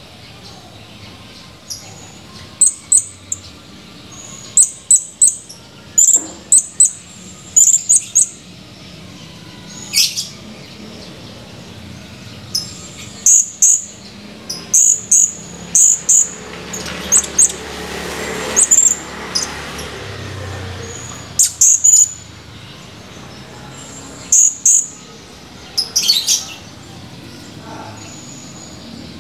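Blue-crowned hanging parrot (serindit) calling: short, sharp, high-pitched chirps, mostly in quick runs of two to four, repeated with pauses of a second or more.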